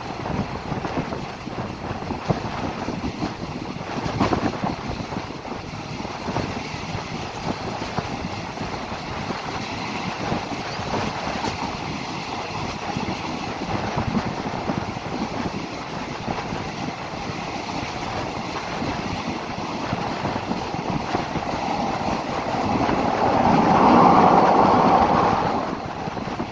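Passenger train running along the track, heard from an open carriage window: a steady rumble and rattle of the wheels, with wind rushing past. The noise swells louder for a few seconds near the end.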